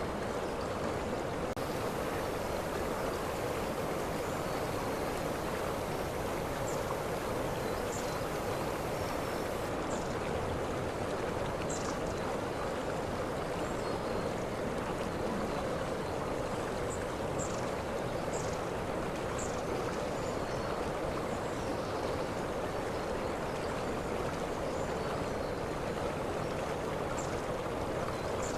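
Waterfall cascading steadily, an even rush of falling water with no change in level, with faint brief high ticks here and there.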